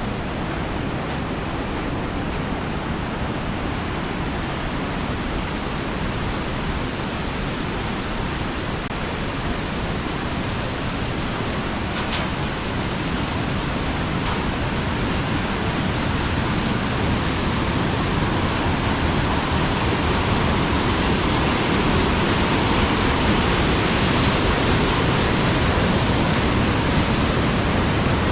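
Iguazu Falls: a steady rush of heavily falling water, growing a little louder midway through.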